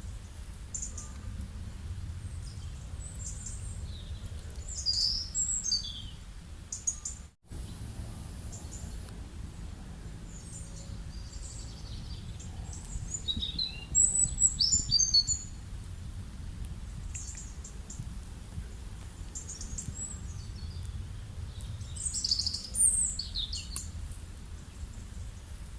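Songbirds chirping and calling in short high phrases over a steady low rumble of outdoor background noise. The loudest bursts of song come about five, fourteen and twenty-two seconds in, and the sound cuts out for an instant about seven seconds in.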